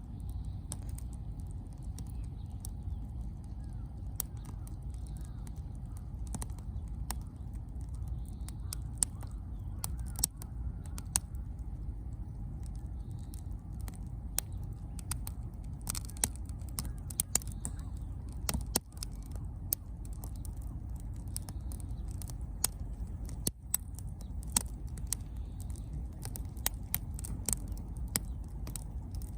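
Wood bonfire crackling, with sharp pops and snaps at irregular intervals, a few louder than the rest, over a steady low rumble.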